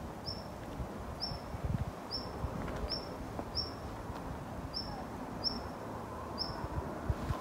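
A small bird repeating a single short, high call note about every three-quarters of a second.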